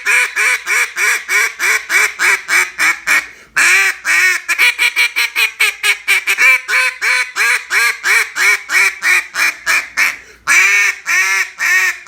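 Black River Duck Calls Tyrant molded single-reed duck call blown in long runs of quick, evenly spaced quacks, about four to five notes a second. The runs are broken by two short pauses, about three and a half and ten and a half seconds in. It is being blown like a J-frame meat call.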